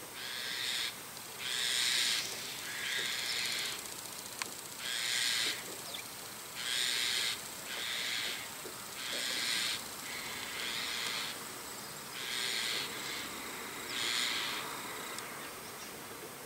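A bird calling over and over: about ten harsh, scratchy calls, each under a second long, coming every one to two seconds.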